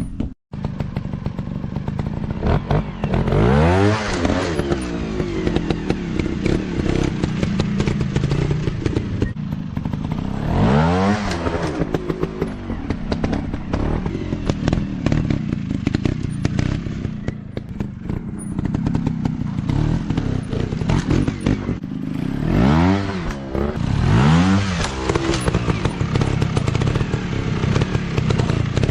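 Off-road motorcycle engines running continuously, with the throttle blipped in rising-and-falling revs several times, twice close together near the end.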